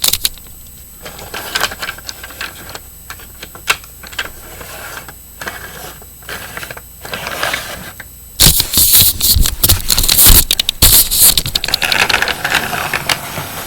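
Toy train set clicking and clattering along its track, with scattered sharp clicks at first; about eight seconds in the clatter becomes much louder and denser.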